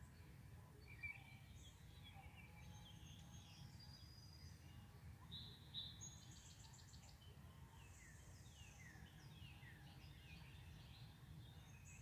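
Faint backyard songbirds singing and chirping, several birds at once, with repeated downward-slurred whistles and a quick trill about six seconds in, over a steady low rumble.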